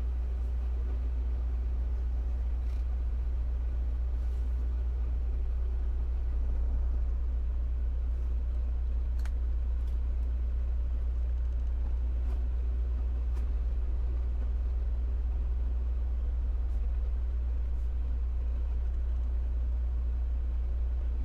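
Steady low rumble of a semi-truck's diesel engine, with a few faint clicks.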